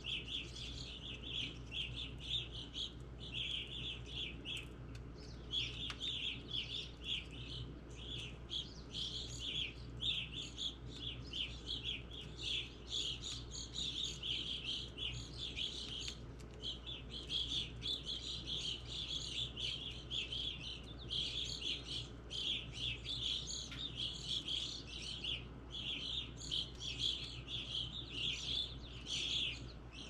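Small wild birds chirping and twittering steadily, many short calls overlapping, with only brief pauses.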